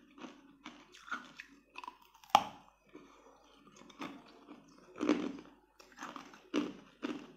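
Close-up biting and chewing of crunchy pink lotus root: irregular crisp crunches, with one sharp, loud bite a little over two seconds in and a quicker run of crunches in the second half.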